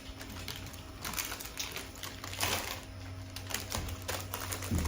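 Irregular small clicks, taps and rattles of wooden birdhouse-kit pieces being handled and fitted together, over a faint low steady hum.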